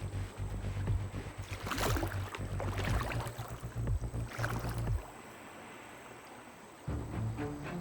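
Water sloshing and splashing in irregular strokes, dropping away for nearly two seconds past the middle before starting again.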